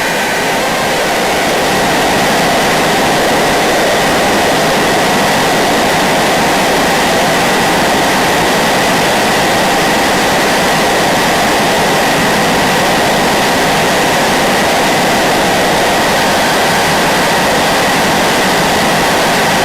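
Harsh noise wall music: a loud, dense, unbroken wall of distorted static, with faint held tones sitting inside it. It swells slightly over the first couple of seconds, then stays level.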